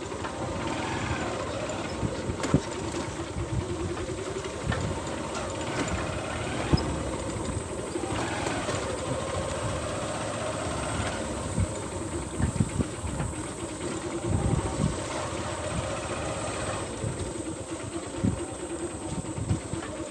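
A small vehicle's engine running steadily while on the move, its pitch shifting a little, with frequent short low thumps.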